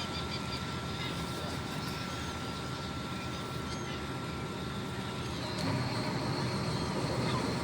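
Tour boat's engine running steadily under wind and water noise; about five and a half seconds in the sound grows louder and a higher steady whine comes in.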